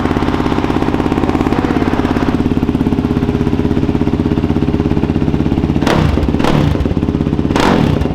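Yamaha YFZ450R quad's 449 cc single-cylinder four-stroke engine idling through a freshly fitted Rossier R5 aftermarket exhaust, with an even, choppy beat. Near the end the throttle is blipped a few times, the engine rising briefly in quick succession.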